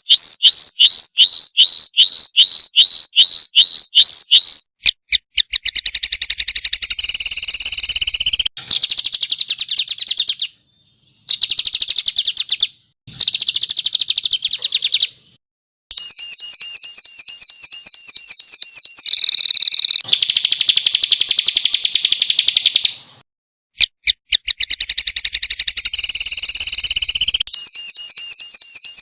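Small songbirds' rapid-fire 'tembakan' song: high-pitched repeated notes and fast trills. It starts with about three sharp notes a second, then runs into denser trills in a string of spliced segments broken by short, abrupt silences.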